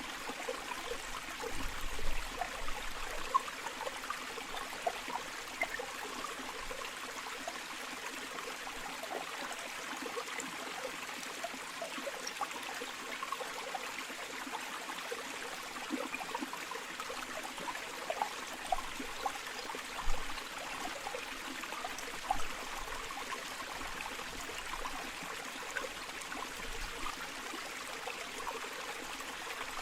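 Small river or stream flowing steadily, a constant rush dotted with little splashes and gurgles, with a few louder splashes here and there.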